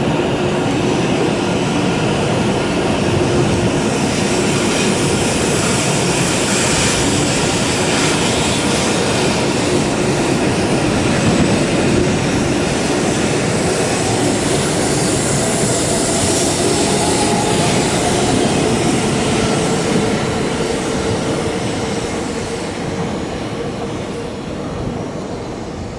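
Shinkansen bullet train running alongside the platform: a loud, steady rushing noise of wheels and air with a few faint steady tones, fading over the last few seconds.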